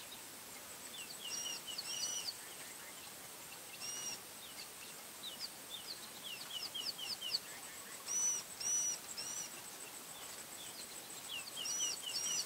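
Wild birds singing in the bush: bouts of quick chirped and whistled phrases that come and go every few seconds, over a thin, steady, high-pitched whine.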